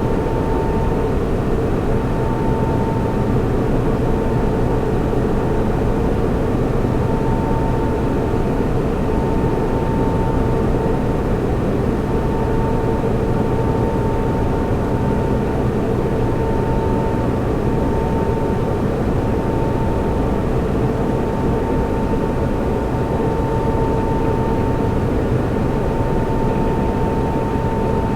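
Server room ambience: a steady rush of cooling fans with a low hum, and a thin steady whine over it.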